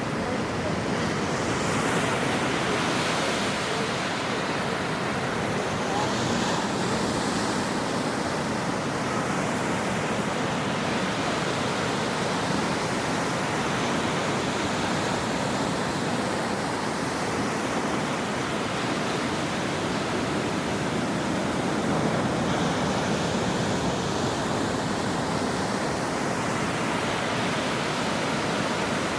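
Ocean surf on a shore: a steady rush of breaking waves, with the hiss of washing water swelling now and then as a wave comes in.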